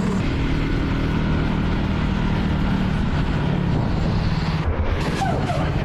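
Motorcycle engine running at a steady speed under heavy wind rush on the microphone, its hum holding an even pitch.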